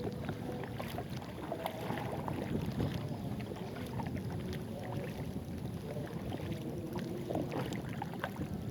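Water sloshing and splashing around a kayak as it is paddled, with scattered small knocks and a steady low rumble of wind on the microphone.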